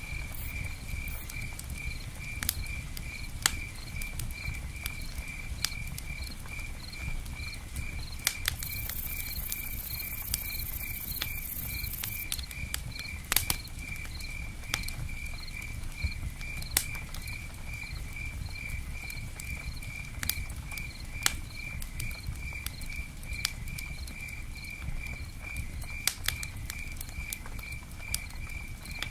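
Campfire and rain ambience. There are scattered sharp crackles and pattering ticks over a low rumble, and a cricket chirps steadily about twice a second. A brief high hiss comes about a third of the way in.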